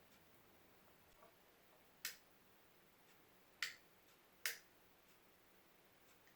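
Three short, sharp clicks at uneven intervals over faint room tone.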